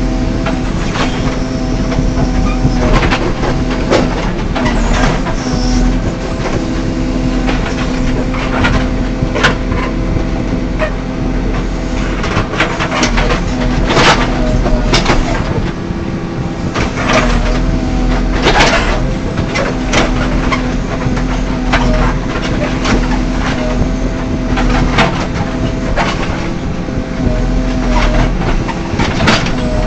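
JCB backhoe loader's diesel engine running steadily under load, with many sharp clanks and knocks scattered through, clustered around the middle.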